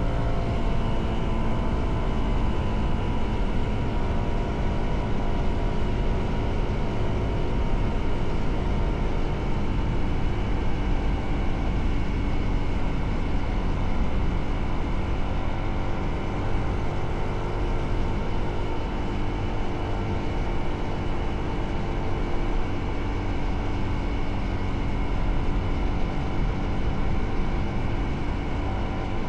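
Motorcycle engine running under way, its pitch drifting gently up and down with speed, over steady wind and road noise.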